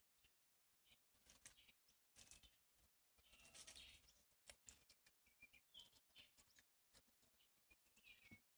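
Near silence outdoors: faint scattered rustles and clicks, with a few faint, short bird chirps.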